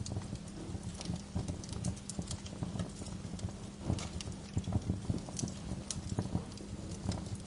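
Bonfire burning: logs crackling with frequent irregular sharp pops over a low steady rumble.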